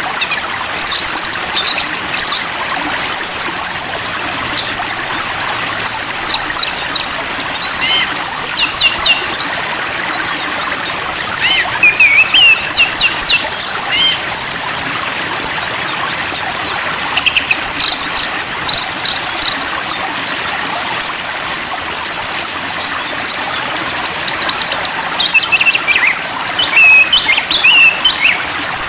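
Small songbirds chirping and whistling in quick, high clusters of notes over the steady rush of running stream water.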